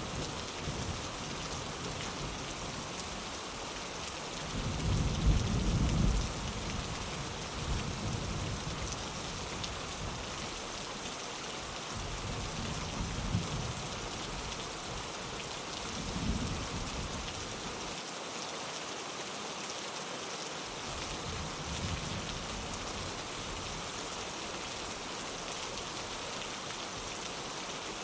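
Steady rain pattering on a window, with distant thunder rolling in low rumbles several times. The loudest rumble comes about five seconds in.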